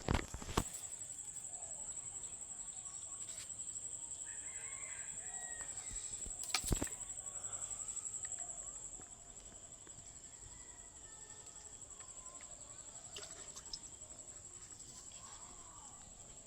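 Domestic chickens calling in the background, with sharp knocks near the start and about six and a half seconds in, over a steady high-pitched hum.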